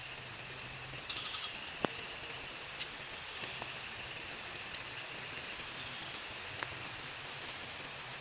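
Steady rain in the forest with scattered sharp drips, and a short animal call about a second in.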